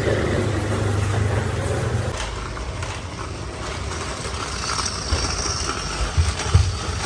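A vehicle engine running, its steady low hum dropping away about two seconds in, with a few short knocks near the end.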